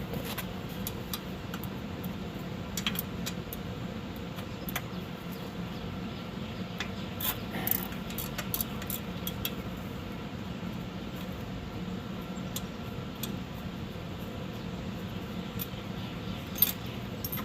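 Scattered light metallic clicks and clinks of hand tools on the 10 mm bolts of the parking brake brackets, over a steady fan hum.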